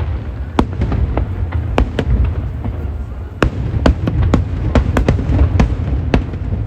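Aerial fireworks bursting in quick succession: about a dozen sharp bangs at uneven intervals over a continuous low rumble.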